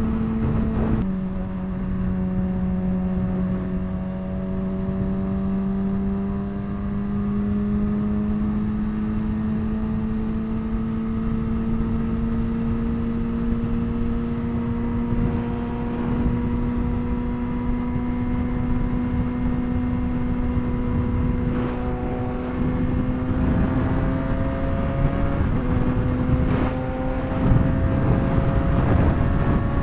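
2007 Suzuki GSX-R600's inline-four with a straight-pipe exhaust, running steadily at highway speed, over wind noise. The engine note drops about a second in, then rises slowly as the bike gains speed, and dips again near the end.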